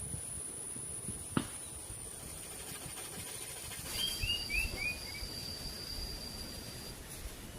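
Forest ambience with a steady high insect whine and a single sharp click about a second and a half in. About four seconds in, a bird gives a quick run of five short falling chirps, and a second, lower steady insect tone starts and holds for about three seconds.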